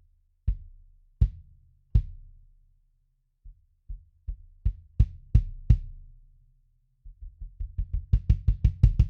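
22-inch kick drum with an Evans EMAD2 head being struck. There are three single strokes about three-quarters of a second apart, then a run of strokes growing louder, then a quick flurry of about five strokes a second near the end. Each is a short low thud with a brief ring.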